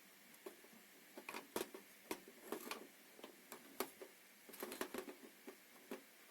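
Irregular light clicks and taps, a dozen or so scattered unevenly over a faint steady hiss.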